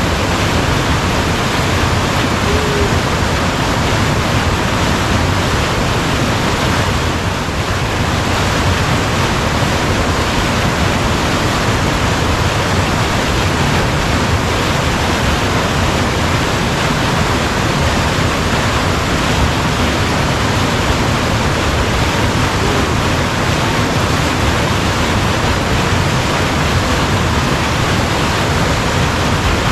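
Waterfall and white water pouring close by, a loud steady rush of water.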